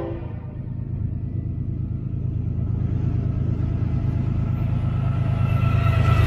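Diesel freight locomotive approaching with its train: a steady low engine rumble that grows louder as it nears, with fainter higher tones coming in near the end. A train horn note cuts off right at the start.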